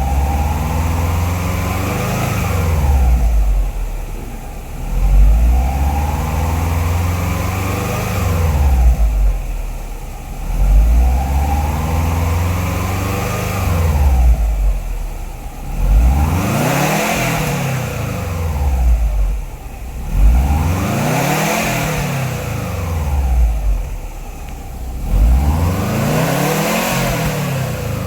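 Subaru Forester XT's turbocharged 2.5-litre flat-four engine revved repeatedly through an aftermarket exhaust with a metal-cat downpipe, resonated mid pipe and single muffler. About six revs, roughly every four seconds, each rising in pitch and falling back; the later ones are quicker blips.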